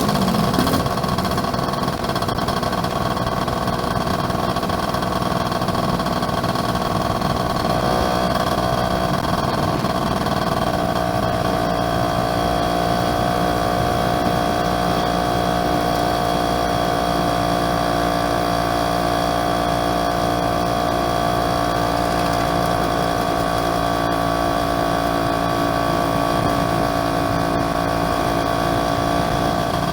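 Yamaha F1ZR's two-stroke single-cylinder engine running steadily while the motorcycle is ridden, its pitch stepping up slightly about eight seconds in, then holding steady.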